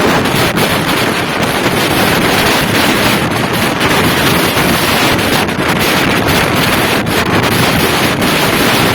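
Wind buffeting the microphone of a camera riding on a moving motorbike: a loud, steady rush that masks any engine or tyre sound.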